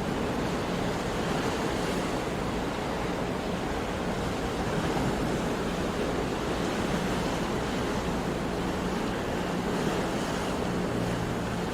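Sea waves washing on the shore in a steady, continuous rush of surf, with a little wind noise.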